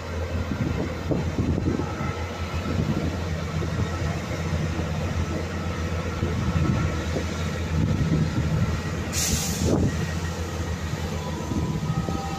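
Diesel multiple-unit passenger train pulling out of the station: a steady low engine drone under the uneven rumble and clatter of its wheels on the rails. A short sharp hiss cuts in about nine seconds in.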